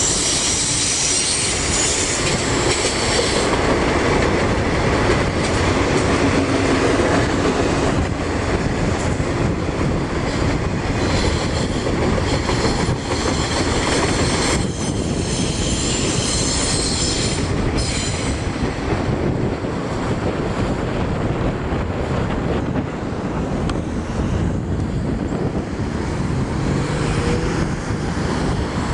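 Freight train of autorack cars rolling past on curved track, wheels clacking and squealing, with the high-pitched squeal strongest in the first few seconds. The high end thins out in the second half as the last cars go by.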